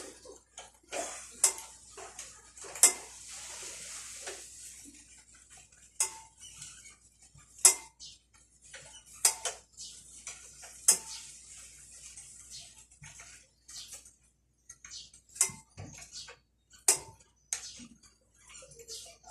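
Irregular sharp metal clinks and taps of hand tools and a motorcycle drive chain being worked on. A short scraping rasp comes a few seconds in.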